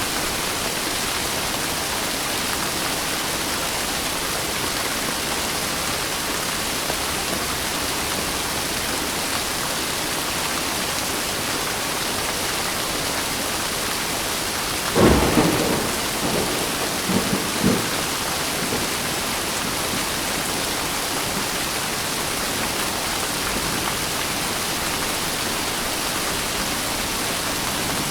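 Steady heavy rain with a sudden thunderclap about halfway through, followed by a few shorter rumbles of thunder over the next couple of seconds.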